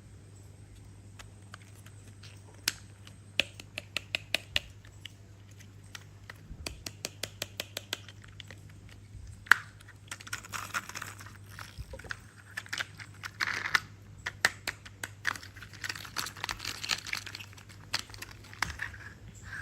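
A toy being handled: runs of quick clicks, at one point an even run of about five a second, then rustling and scraping from about halfway through, over a steady low hum.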